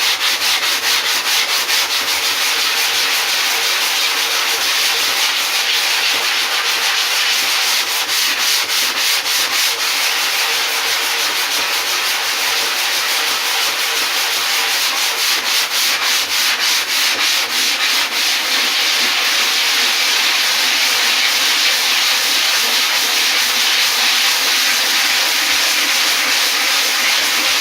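Hand sanding of cured surfboard repair foam with 120-grit sandpaper on a rigid plastic sanding block, in quick, even back-and-forth strokes that run together more continuously about two-thirds of the way through.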